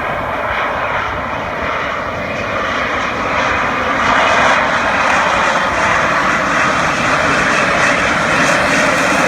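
Airplane engine running loud and steady overhead, with a rushing sound that grows a little louder about four seconds in.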